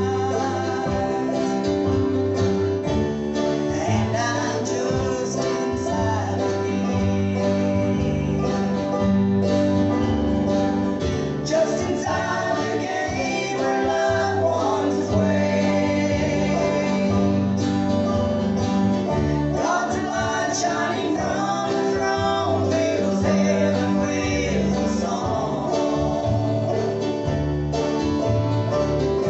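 Live country-gospel music: a group singing with acoustic guitar accompaniment, steady throughout.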